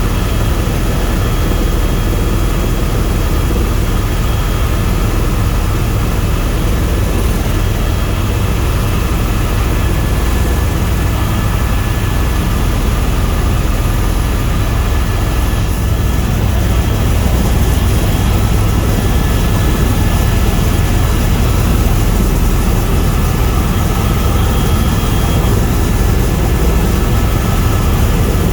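Tour helicopter in flight: a steady, loud drone of rotor and turbine, with a faint high whine over it, unchanging throughout.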